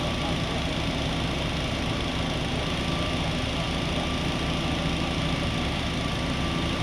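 A large engine idling steadily, a constant low hum that neither rises nor falls.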